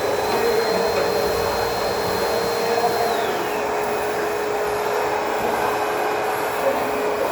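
ProTeam Super CoachVac backpack vacuum running steadily at full suction. A high whine slides down in pitch about three seconds in.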